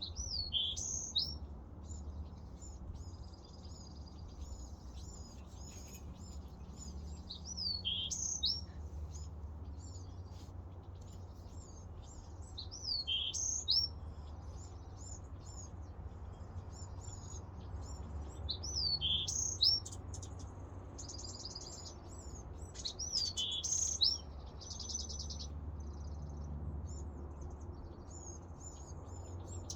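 Songbirds singing. One bird repeats a short phrase of high, down-slurred whistled notes about every five or six seconds, among softer chirps and a couple of brief trills. A steady low rumble runs underneath.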